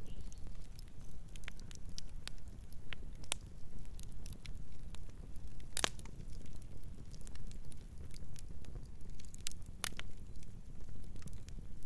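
Wood fire crackling: irregular sharp pops and snaps over a steady low rumble, with a louder pop about six seconds in and another about ten seconds in.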